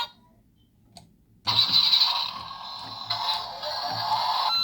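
Electronic sound effect from the Maxx Action long hauler toy's small built-in speaker. It starts about a second and a half in and keeps going as a loud, noisy, music-like effect.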